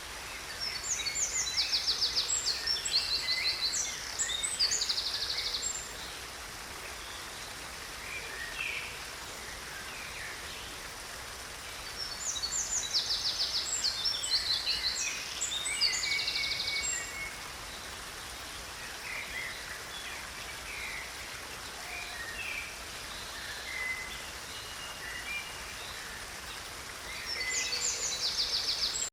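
A stream running steadily, with a songbird singing rapid, high trilled phrases in three spells: about a second in, about twelve seconds in, and near the end.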